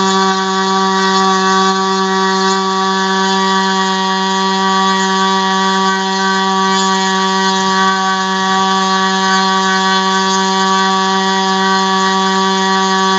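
ASP 25 two-stroke glow model engine spinning a 10x6 propeller on a test stand, running flat out at a steady, high-pitched drone that holds one pitch throughout.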